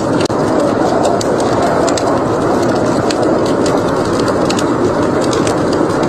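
Wood fire crackling in a fireplace: frequent short, sharp crackles and pops at irregular intervals over a steady, dense rushing noise.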